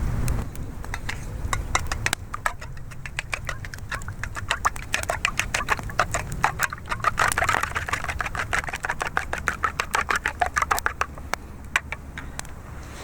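Eggs and milk being beaten in a bowl with a utensil: a fast run of clicking strokes, about five a second, starting about two seconds in and stopping near the end.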